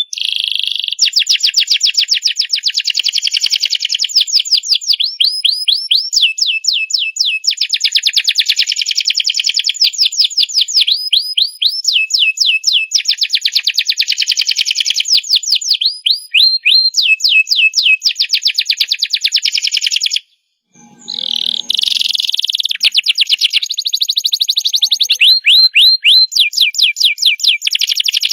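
Domestic canary in full, continuous song: long rolls of rapidly repeated notes, one phrase after another, some phrases made of notes that sweep down in pitch. The song breaks off for under a second about twenty seconds in.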